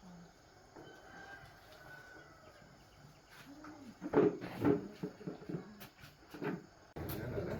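Domestic chickens clucking and calling, louder for a few calls about four seconds in.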